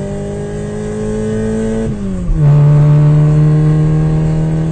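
Cartoon vehicle engine sound effect: a steady engine drone slowly rising in pitch, dropping sharply about two seconds in like a gear change, then running on louder at a lower pitch.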